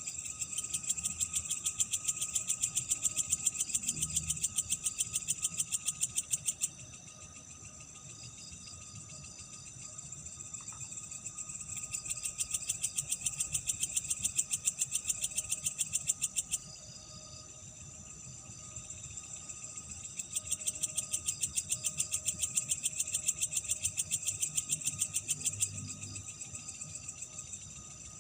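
Night insects calling: a rapid, high-pitched pulsing trill that swells in three loud bouts of about five seconds each, with a softer trill between them and a faint steady tone underneath.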